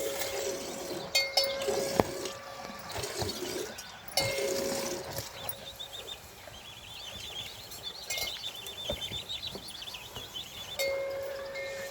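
Bell worn by livestock clanking and ringing in three spells, with a rapid high chirping trill in between.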